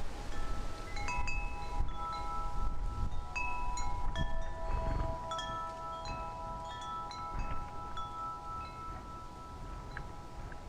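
Wind chimes ringing in the breeze: tubes struck irregularly, each note ringing on and overlapping the others, over a low rumble of wind on the microphone.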